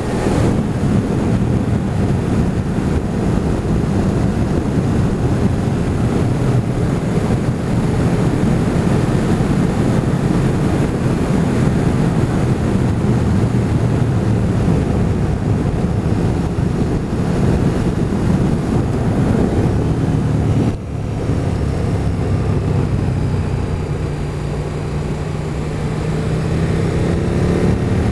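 Motorcycle on the move, with wind rushing over the microphone and the engine running steadily underneath. About three-quarters through there is a brief dip, as at a gear change. Near the end the engine's pitch rises as it accelerates.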